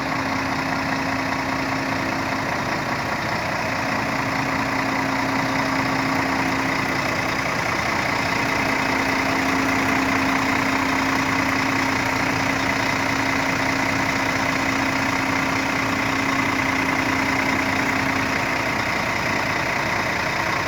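Heavy truck diesel engine idling steadily, with a constant low hum.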